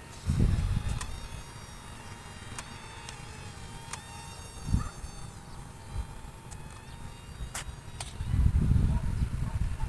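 Remote-controlled model airplane's electric motor and propeller whining steadily like a buzzing insect, its pitch drifting slightly, with low gusts of wind on the microphone just after the start and again near the end.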